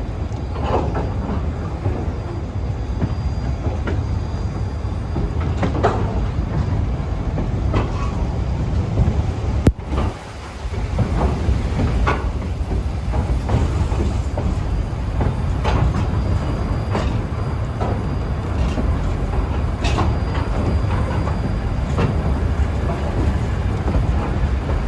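Railroad cars rolling on the track: a steady heavy low rumble with irregular clanks and clicks from the wheels and running gear. There is a sharp click about ten seconds in, with a brief drop in the rumble.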